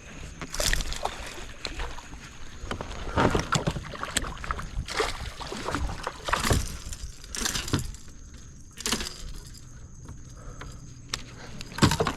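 A hooked bass being landed into a fishing kayak: irregular splashes and knocks against the hull, with handling noise in between.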